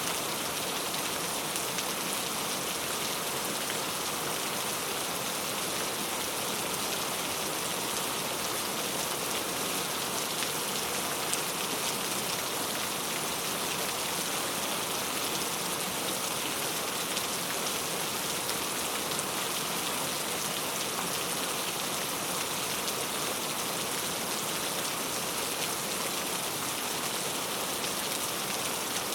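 Steady rain falling on a surface, an even hiss with fine scattered drop patter.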